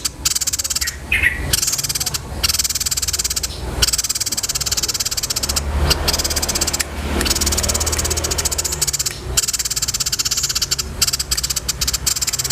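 A songbird's rapid, dry, high-pitched chattering trill, in long runs broken by several short pauses.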